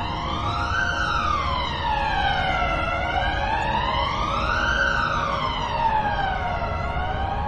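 Emergency vehicle siren in a slow wail, its pitch rising and falling about every four seconds and peaking twice, over a low steady rumble.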